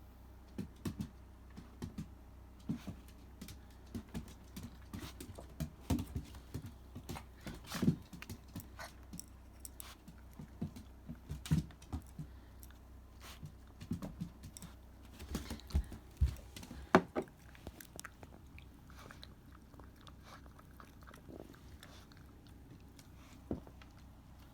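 Shiba Inu eating dry kibble topped with sardines: irregular crunching and clicks of the food being chewed, which die away about eighteen seconds in, leaving a single click near the end.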